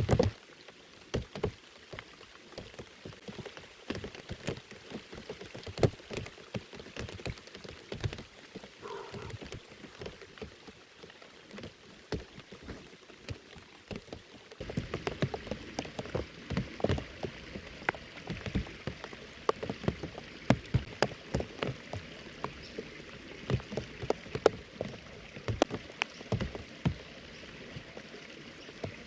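Heavy rain falling, many separate drops tapping sharply on a surface over a steady hiss. About halfway through, the hiss of the rain grows denser and stays so.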